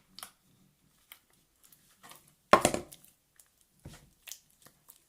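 Homemade slime being squished and pulled by hand, giving scattered faint sticky crackles and pops, with one louder pop about two and a half seconds in and a few smaller ones near four seconds.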